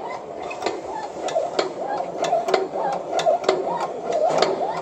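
Hand-operated lokma batter dispenser working over hot frying oil: sharp irregular clicks and pops, a few each second, as portions of dough are dropped into the oil.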